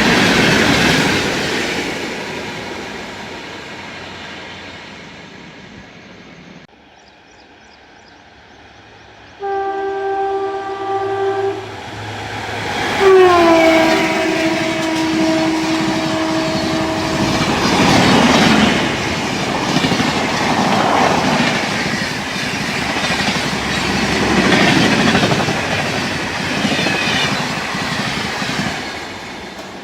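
A passing train's rumble fades and cuts off. A train horn then sounds twice, a short blast and then a longer one of several seconds. The train runs through at speed with wheels clattering over the rail joints, rising and fading away.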